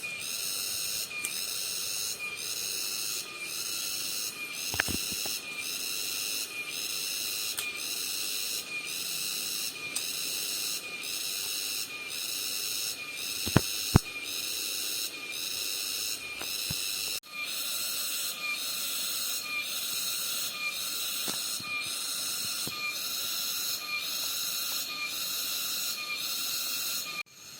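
Cicada singing: a shrill, high buzz pulsing a little more than once a second. Two sharp clicks about halfway through.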